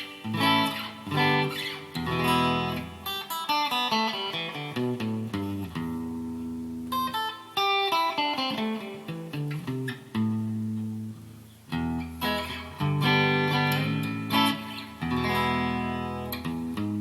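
Yamaha Pacifica PAC012 electric guitar on its middle pickup, played through an amplifier: picked notes and ringing chords with a couple of short pauses.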